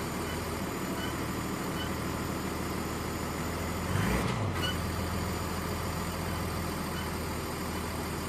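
Mazda CX-60 running with a steady low drone. About four seconds in there is a brief louder surge with a shifting low rumble: the abnormal noise on pressing the accelerator, put down to a faulty exhaust shutter valve.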